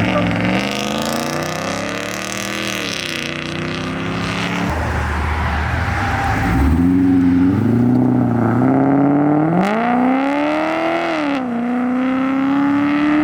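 A performance car's engine revving under acceleration. Its pitch climbs and drops back several times, like gear changes, and the highest climb comes about ten seconds in.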